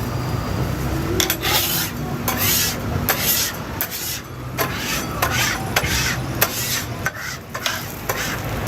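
Metal spatula scraping and stirring on a hot griddle in repeated strokes, about one or two a second, starting about a second in, over a steady low hum.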